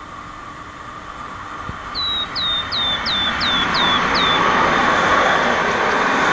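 Electric locomotive-hauled passenger train approaching and passing close, its wheel-on-rail rumble and hiss swelling steadily. About two seconds in, six high, short falling chirps sound about a third of a second apart.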